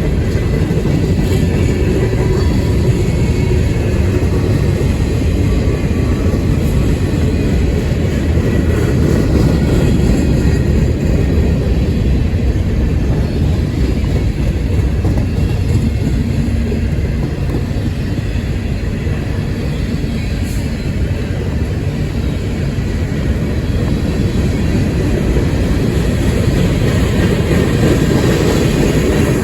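Cars of a long manifest freight train rolling past: a steady rumble of steel wheels on the rails.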